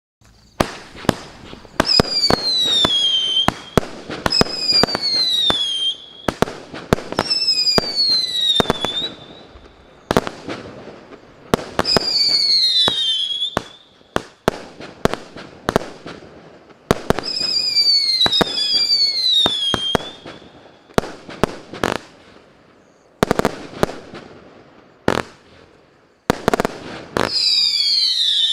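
A 100-shot, 0.8-inch fireworks cake battery (MC134 'Wind') firing: a rapid string of launch pops, many of the shots carrying a whistle that falls in pitch over about a second and a half. The whistles come in clusters, with stretches of pops alone between them.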